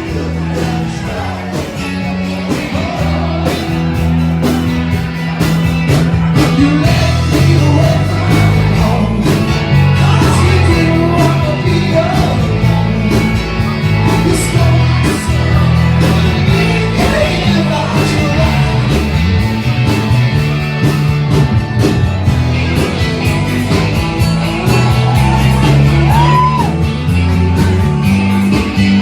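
Live rock band playing: a singer over a steady drum beat and a moving bass line, with guitar.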